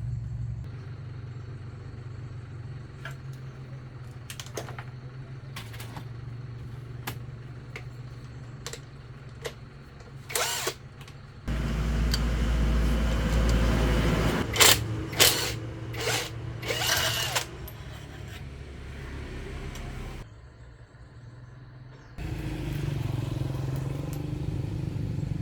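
A motor running steadily, with scattered sharp clicks and knocks, and a louder stretch about halfway through with several loud hits.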